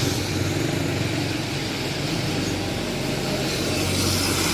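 Motor vehicle engine running steadily, a low hum over a haze of street noise.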